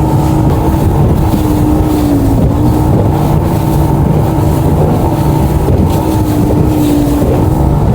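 Boat motor running steadily, its hum dipping slightly in pitch a couple of times, with wind on the microphone.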